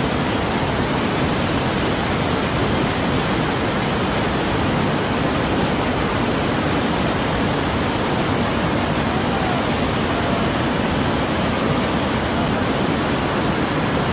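Water pouring over the wall of the Gargalheiras dam, a loud, steady rush.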